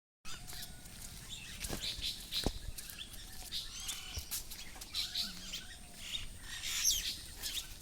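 Small birds chirping and twittering, many short high calls overlapping, with a couple of sharp knocks about two seconds in.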